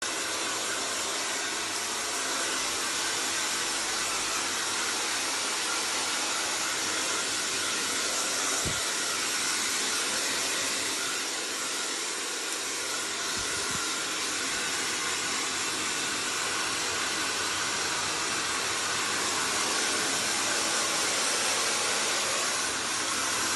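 Hair dryer blowing steadily, a continuous airy rushing noise.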